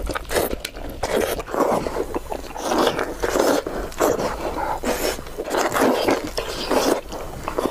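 Close-miked wet chewing and mouth smacking of braised pork, in noisy bursts about once a second.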